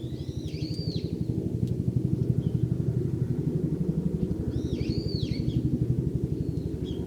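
An engine running steadily with a fast, even low throb, the loudest sound throughout. Over it come bird calls: a short burst of chirps about a second in, another about five seconds in, and a few single faint chirps between.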